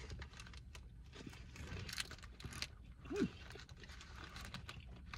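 A person chewing a mouthful of burger close to the microphone: soft wet mouth clicks and smacks, with a brief falling "mm" hum about three seconds in.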